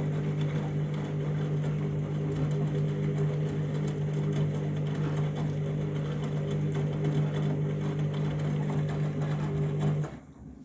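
Washing machine motor turning the drum with a steady hum during a deep rinse of a mega-sized heavy load, cutting out near the end.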